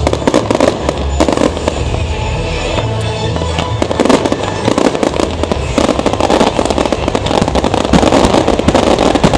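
Fireworks display going off in a dense, continuous barrage of crackles and bangs, with music playing underneath.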